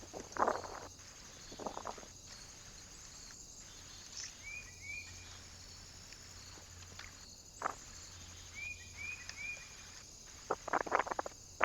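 Small birds at a feeder: a few brief chirps and several short rustling bursts, the loudest cluster near the end.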